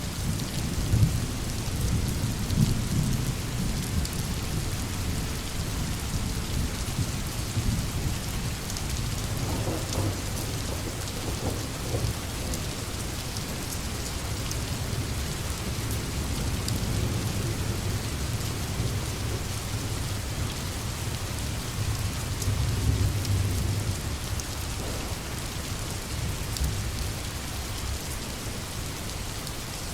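Heavy rain falling steadily, with low rolling thunder rumbling underneath that swells about a second in and again near the end.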